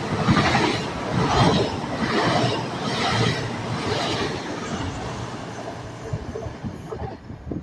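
Train running past on the rails, its wheels beating in a regular rhythm about once a second, fading away toward the end.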